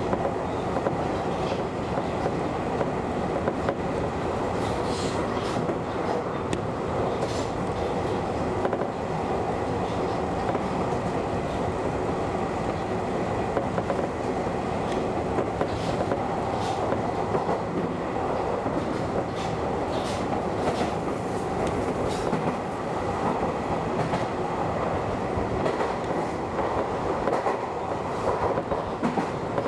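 Keio Inokashira Line express train running along the line, heard from the front of the train: steady rolling and motor noise with scattered clicks of the wheels over rail joints and a faint steady high tone.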